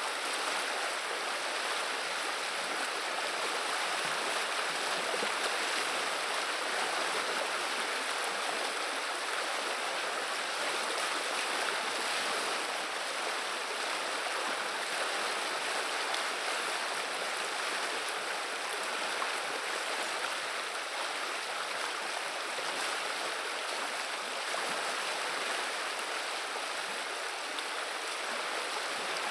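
River water running and babbling in a steady, even rush that neither rises nor falls.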